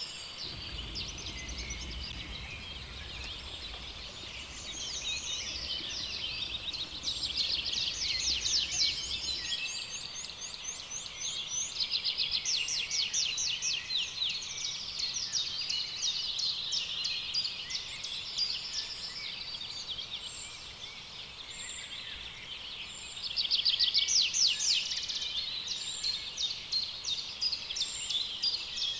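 Many birds singing at once, a continuous chorus of rapid high trills and chirps that overlap and swell in waves. A low rumble sits underneath for the first third.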